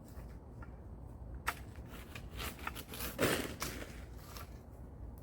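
Pruning saw cutting through bird of paradise leaf stalks, with scattered short rasps and crackles of the cut leaves, and one louder rasping cut about three seconds in.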